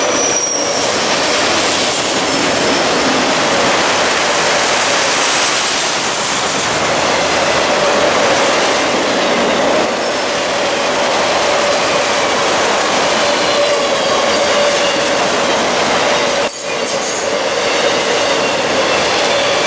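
Freight train of multilevel autorack cars rolling past close by, a loud steady rumble and clatter of steel wheels on rail with a sustained wheel squeal held at one pitch.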